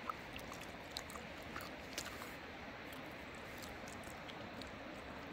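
Close chewing: a few scattered, sharp mouth clicks over a steady background hiss.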